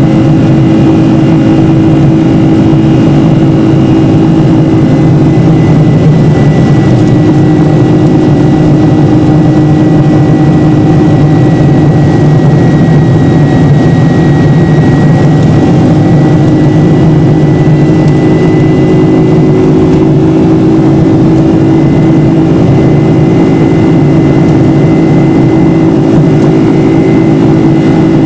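Boeing 747's turbofan engines heard from inside the passenger cabin, running steadily and loud at climb power after takeoff, with a low hum under a faint high whine.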